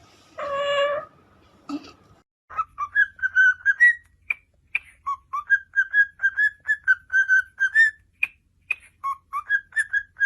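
Pet parrot whistling: one short call near the start, then a long quick run of short whistled notes at a fairly steady pitch, several a second, with small clicks between them.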